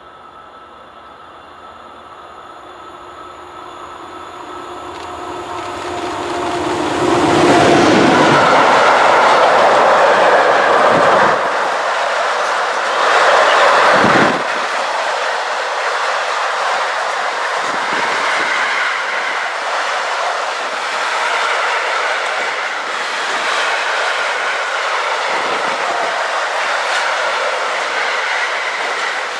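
Freight train of double-deck car-transporter wagons approaching and passing close by. A rumble grows for several seconds, and a steady tone drops in pitch as the head of the train passes about eight seconds in. Then the wagons' wheels keep rolling past on the rails.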